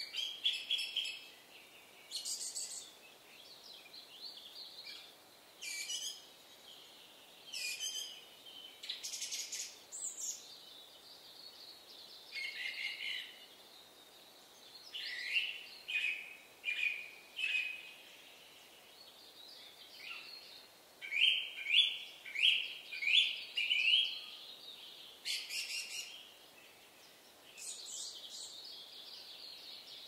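Small birds chirping and singing in short bursts of calls. Twice there is a series of four or five quick down-slurred notes, the second and louder one past the middle.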